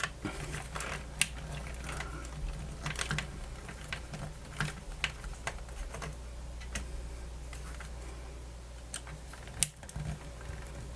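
Irregular small clicks and taps of hand tools working on the plastic and metal parts of a radio's hand-crank dynamo assembly, a sharper click near the end, over a steady low hum.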